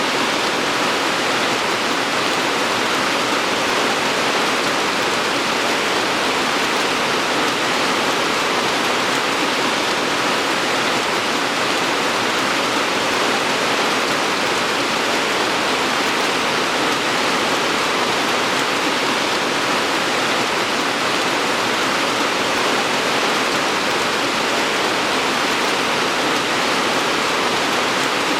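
Steady rain falling, an even hiss with no distinct drops or gusts.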